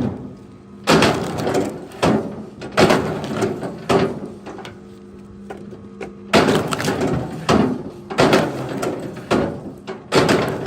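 Wooden logs knocking and clattering against wood, about nine sharp crashes at uneven intervals, over a steady low hum.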